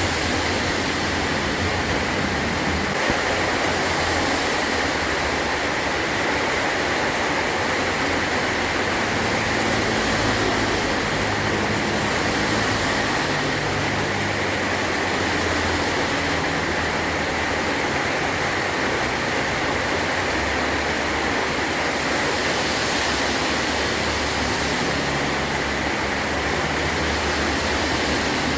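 Heavy rain drumming steadily on a metal roof, an even, unbroken hiss with no distinct thunderclap.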